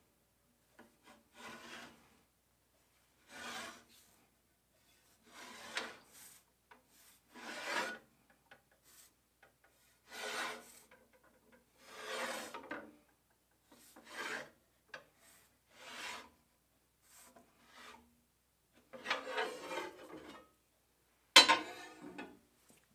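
Hand file drawn in strokes across a steel flat bar, one stroke every second or two, knocking high points off the sides of a bar spread by hammering. One sharper, louder stroke comes near the end.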